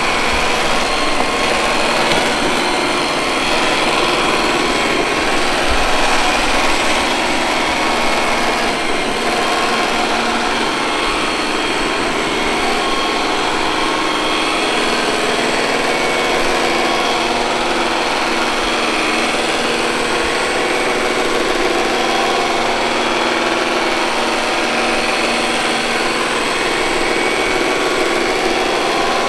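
Robot vacuum cleaner running steadily, its suction fan and brushes making an even whirring hum with a few faint steady tones.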